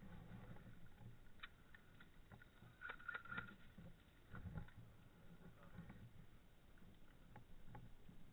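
Near silence: a faint low rumble with a few scattered faint clicks, the clearest cluster about three seconds in.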